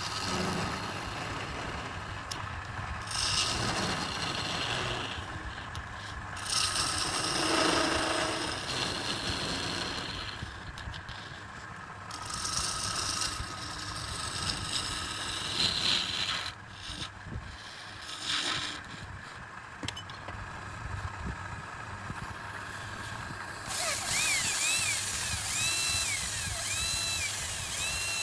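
Woodturning on a redwood burl: a tool cuts and scrapes the spinning wood in irregular bursts over a steady hum. About 24 seconds in, a power tool with a whine that rises and falls about once a second joins.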